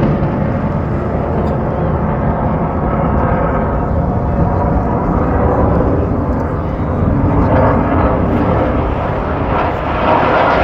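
Aircraft flying overhead, a loud, steady engine rumble that swells near the end.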